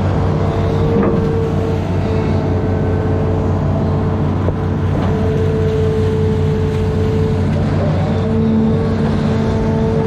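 Amphibious excavator's diesel engine running steadily, with a steady high whine over the low hum and a few light knocks.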